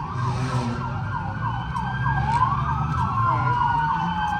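Police sirens sounding together: one yelping in quick up-and-down sweeps about four times a second, another wailing in a slow rise and fall, over a low rumble of street traffic.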